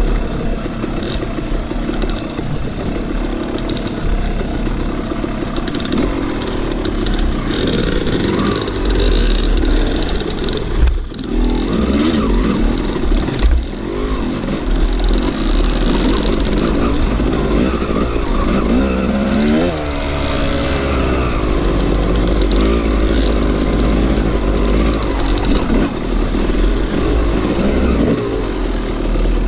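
Two-stroke dirt bike engine riding a trail, its revs rising and falling over and over as the throttle is worked, with a brief drop in sound about eleven seconds in.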